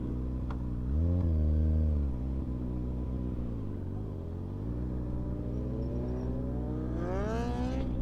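Motorcycle engines: one idles steadily underneath while another is revved once about a second in, then pulls away accelerating, its pitch climbing over the last three seconds.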